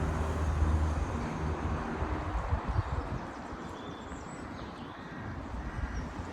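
Motor vehicle engine running at low revs, a low hum that fades away about halfway through, over steady outdoor background noise.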